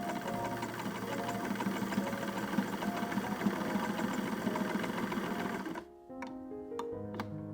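Antique Singer sewing machine stitching at a fast, steady rattle, stopping abruptly about six seconds in, followed by a few sharp clicks.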